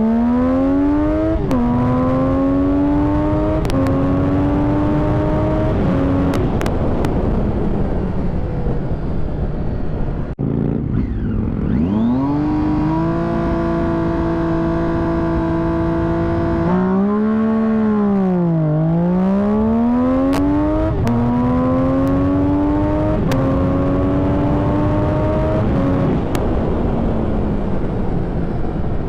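A vehicle engine run hard up through the gears. Its pitch climbs and drops sharply at each upshift, every two seconds or so. It holds steady for a few seconds in the middle, dips and climbs again, then runs up through more quick shifts.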